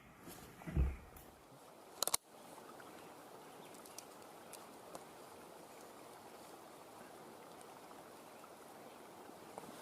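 Steady outdoor water noise from the creek or rain, with a low handling thump just under a second in and a quick pair of sharp clicks about two seconds in.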